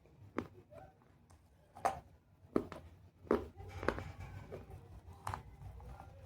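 Pieces of baked clay pot being bitten and crunched, about six sharp, separate crunches at an uneven pace.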